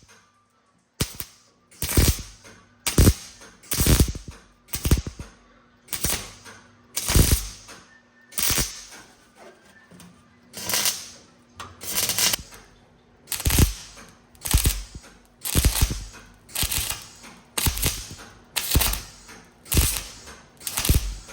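MIG welder laying short stitch or tack welds on sheet-metal floor patches, one crackling burst roughly every second with brief pauses between. The patches are going into thin, rusty floor pans.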